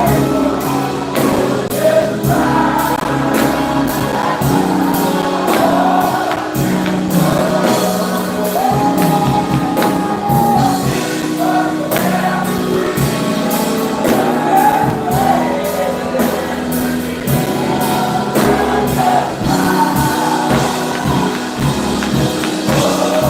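Live gospel music: a choir and congregation singing over band accompaniment, with a tambourine keeping a steady beat.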